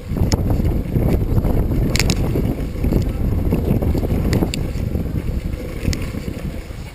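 Heavy wind buffeting the microphone, a dense low rumble, with scattered sharp clicks and rattles.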